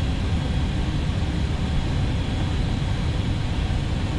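Steady cockpit noise of an Airbus A320neo: an even low rumble with hiss over it and a faint high whine.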